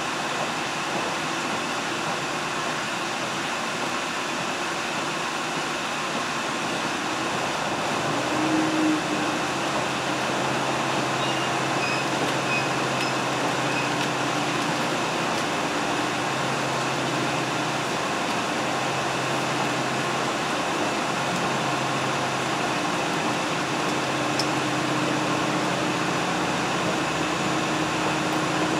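Steady running noise of a diesel train heard from inside the passenger car, a broad rumble and rush with a low engine hum that comes up about eight seconds in.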